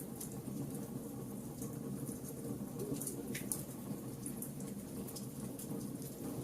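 Wood fire burning, with a steady low rumble of the flames and scattered sharp crackles and pops from the burning wood, a slightly stronger pop about three seconds in.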